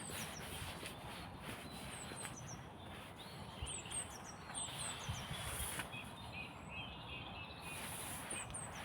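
Small songbirds singing: high, thin chirps repeated in quick pairs and groups, with a second, lower twittering song in the middle, over steady outdoor background noise.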